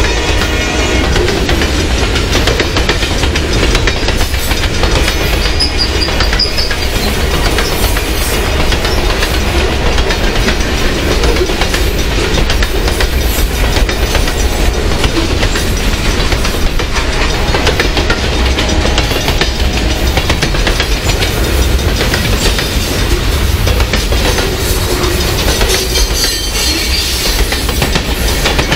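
Boxcars and tank cars of a long freight train rolling past close by: a steady rumble with the clickety-clack of steel wheels over rail joints.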